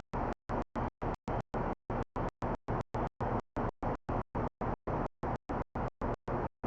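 A rough noise chopped on and off about five times a second in an even, stuttering rhythm, each burst cutting to silence.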